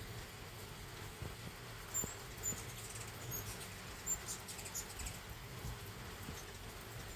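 Hummingbirds giving short, very high chip calls, about five of them between two and five seconds in, over a light patter of rain.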